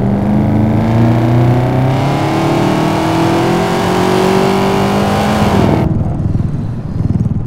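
Supercharged 6.0-litre iron-block LY6 V8 of a Holden VF Commodore SSV pulling hard in third gear, heard from inside the cabin. The engine's pitch climbs steadily for about six seconds, then drops sharply as the driver shifts up.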